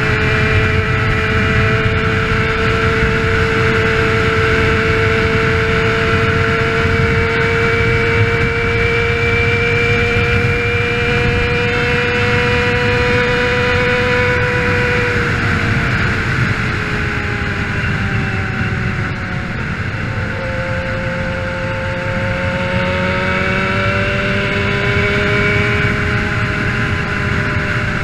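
Motorcycle engine running steadily under way, its pitch holding and creeping up, then dropping about halfway through as the bike slows, then climbing again as it speeds back up.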